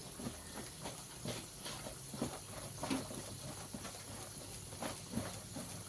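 Irregular light taps and soft rustles of chicken pieces being moved and tossed by hand in dry flour.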